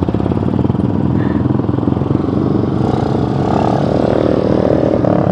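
Yamaha Scorpio 225's single-cylinder four-stroke engine running steadily while the motorcycle cruises.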